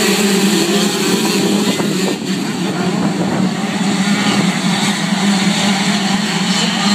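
Motocross bike engines running at race speed, a loud steady drone with a brief dip about two seconds in.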